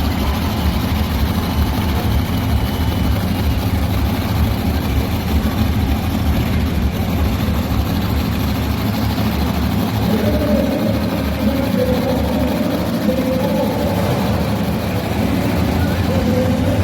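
Heavy vehicle engine running steadily with a deep rumble; a higher engine tone joins about ten seconds in.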